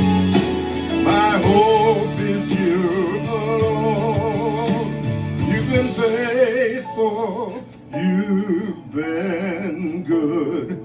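Live singing of a worship song, the voice held in long notes with vibrato over instrumental accompaniment. The low accompaniment notes drop out about six seconds in.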